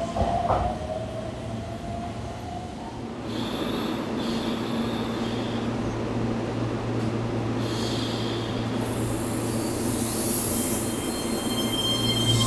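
Keihan electric train moving at the station with a steady low hum, growing louder toward the end, and short high-pitched wheel squeals, about three seconds in and again about eight seconds in.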